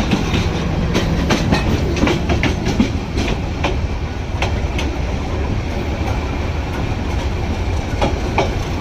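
Train running on the track: a steady low rumble with sharp, irregular clicks and clacks from the wheels over the rails.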